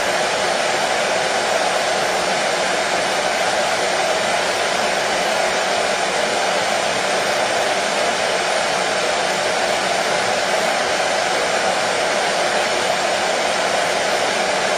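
Hair dryer running steadily, a constant even whooshing of fan and blown air with no change in speed.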